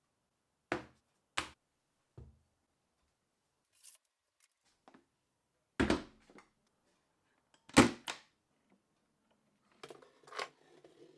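A series of separate short knocks and thuds, about eight in all, the loudest about eight seconds in.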